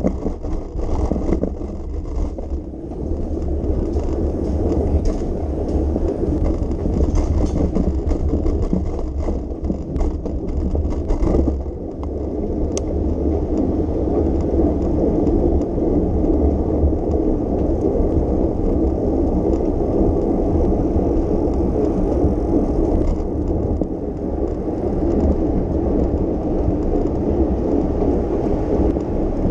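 Steady low rumble of riding a bicycle on city streets: wind and road noise with surrounding traffic. A few brief clicks and rattles come in the first twelve seconds or so.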